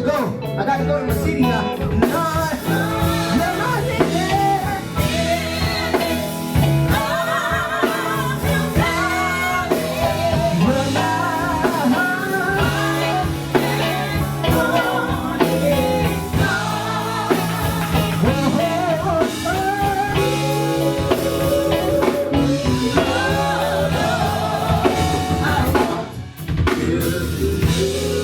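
Live gospel singing with a band of drum kit, bass and guitar, the voice wavering and sliding over steady bass notes. The music drops briefly near the end, then carries on.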